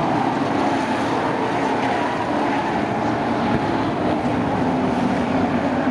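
A field of race trucks' engines running together on the track, a steady, dense engine drone.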